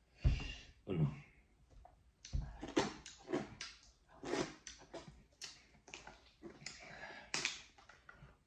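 Close-miked eating sounds: wet chewing and lip smacking on a handful of rice and dal, in a string of irregular sharp bursts. A plastic water bottle is handled and drunk from near the end, to wash down food that feels stuck in the throat.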